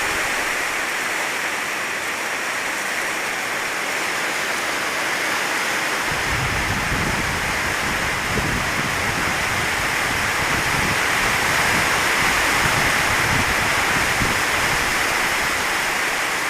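Heavy rain falling steadily, a dense even hiss. About six seconds in, a low rumble joins it and carries on.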